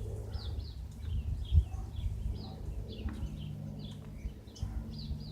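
Small birds chirping, short high chirps repeating several times a second over a low rumble. A steady low hum comes in about three seconds in.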